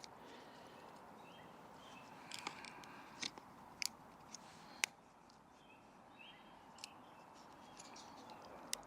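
A few scattered sharp clicks and small cracks of wood as a Swiss Army knife blade stuck at a knot in a split piece of wood is worked loose, over a low steady hiss.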